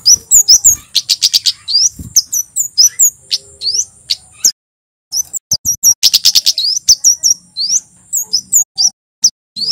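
Male kemade (Javan flowerpecker) singing: a fast series of sharp, high chirps and short rising notes, with two quick rattling runs and a brief pause about halfway.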